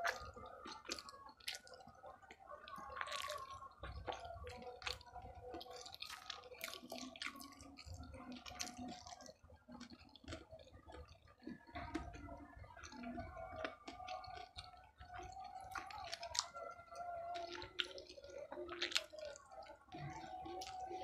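Close-miked wet chewing of batagor (fried fish dumplings in sauce), with a steady stream of small sticky mouth clicks and smacks.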